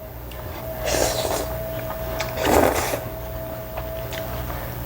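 Ramen noodles being slurped: two noisy slurps about a second and a half apart, over a faint steady tone.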